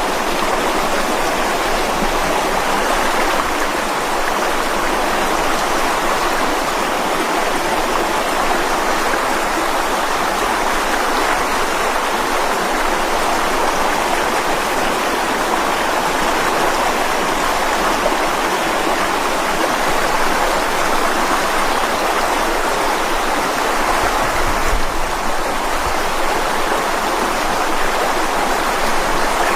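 Mountain stream rushing over rocks: a steady, even wash of flowing water.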